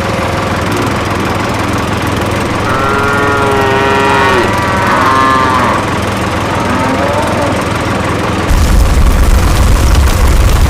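Steady engine-like motor hum, with a wavering pitched sound rising and falling over it in the middle. Loud music with heavy bass cuts in about eight and a half seconds in.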